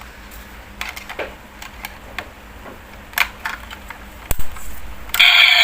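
Scattered plastic clicks and taps as batteries are fitted into a battery-operated toy race car, with one sharp click a little after four seconds in. Just after five seconds the toy switches on and its electronic sound effects start suddenly and loudly.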